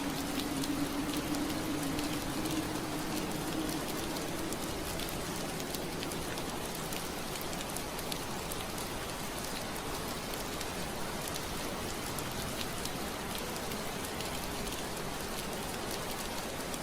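Steady rain on window glass: an even hiss with many small drop ticks. A low steady hum under the rain fades out in the first few seconds.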